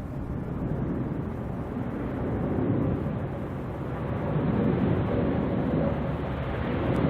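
Airbus A330-941 (A330neo) on landing approach, its Rolls-Royce Trent 7000 jet engines making a broad rumble that slowly grows louder, with a steady whine coming in near the end.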